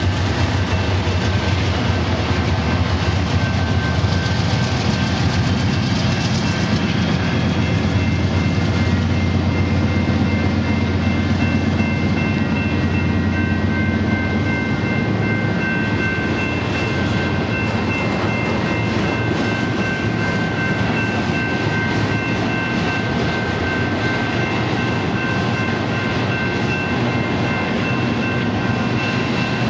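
BNSF diesel locomotives working at full throttle in notch 8, hauling a long, heavy trailer train up a steep grade: a loud, steady rumble of engines and rolling cars. The deep engine rumble eases about halfway through while a thin, steady high whine comes in and holds.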